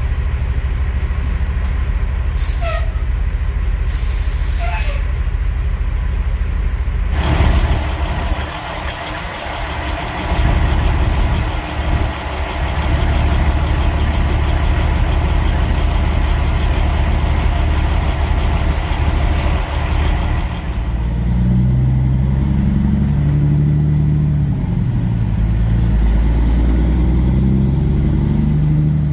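Kenworth W900 semi truck's diesel engine running, with a few short air hisses early on, then a long air hiss from about seven to twenty seconds in. After that the engine pulls away, its pitch rising and dropping in steps as it works up through the gears.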